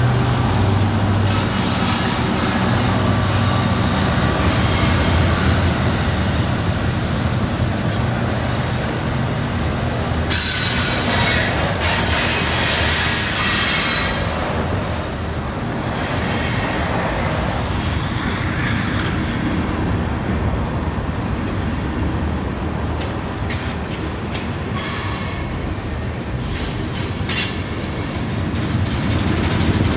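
Freight train passing close by. A diesel locomotive's low engine drone is heard at first and fades as the freight cars roll past with wheels clacking and squealing on the rails. The squeal flares louder about a third of the way in and again near the end.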